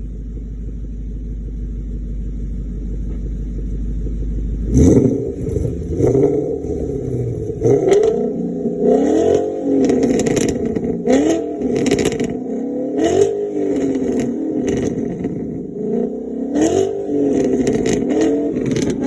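Ford Mustang Boss 302's 5.0-litre V8 through a Borla ATAK cat-back exhaust, idling with a steady low rumble. About five seconds in it is revved again and again, the pitch rising and falling with each blip, and sharp crackles break out among the revs.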